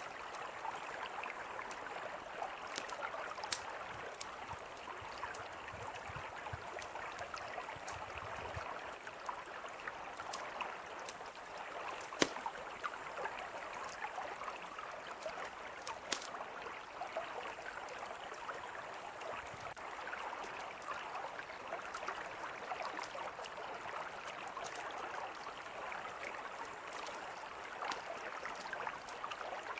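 Mountain river flowing steadily, with a campfire crackling over it in scattered sharp pops, one louder pop about twelve seconds in.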